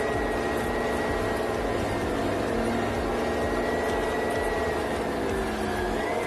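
Steady mechanical drone of a running road vehicle, with a thin, high, steady whine above it.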